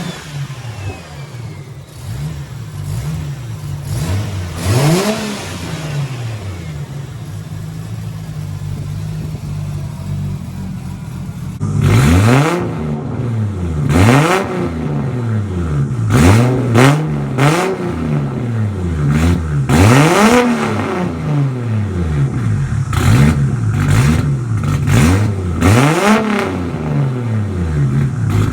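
Turbocharged Nissan RB20E straight-six idling and being revved on its first start after the big-turbo conversion. A single rev about five seconds in, then from about twelve seconds in it gets louder and is blipped over and over in quick revs that each rise and fall back to idle.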